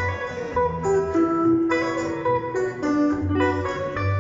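Guitar playing an instrumental break between sung verses of a song: a picked melody line of separate notes over recurring low bass notes, with no voice.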